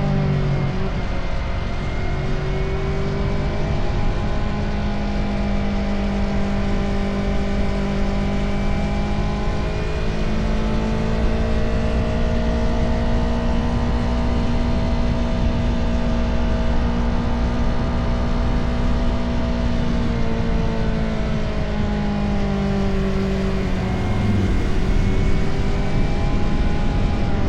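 Motorcycle engine running under way on the road. Its pitch eases down at the start, climbs slowly and holds, then drops and picks up again near the end, over a steady low wind rush.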